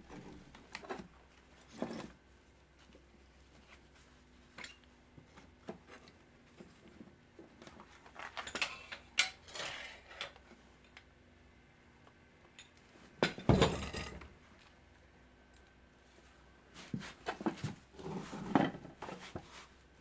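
Steel pieces knocking and clinking as they are handled, in scattered irregular bursts with the loudest clank about two-thirds of the way in.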